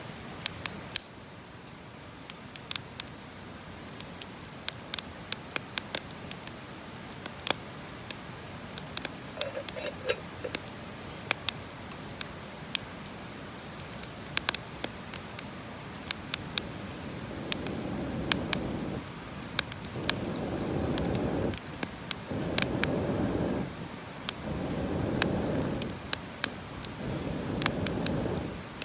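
Wood campfire crackling, with sharp pops and snaps all the way through. From about 17 seconds in, bursts of rushing noise about a second and a half long come roughly every two seconds.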